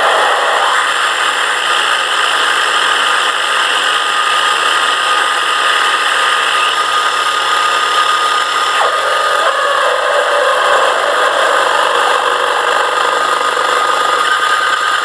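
Dense, steady wall of electronic noise from a live noise-music set, with a thin high tone held through it; the texture shifts about nine seconds in.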